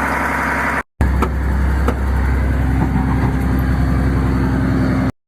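Old truck's engine idling steadily, running smoothly, with two short dropouts where the recording is cut, about a second in and near the end.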